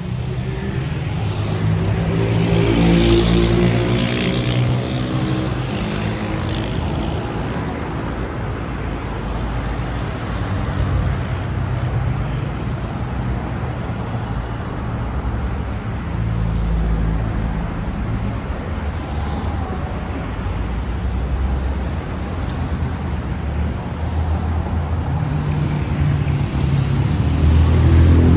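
Street traffic: cars driving past with a steady engine rumble and road noise. One vehicle's engine note rises as it speeds up in the first few seconds, and another vehicle comes through loudly near the end.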